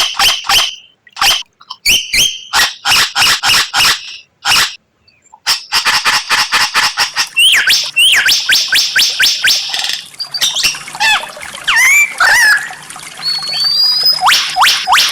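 White-rumped shama (murai batu) song: fast runs of sharp repeated notes broken by short pauses, then sweeping whistled notes and more quick rising notes in the second half.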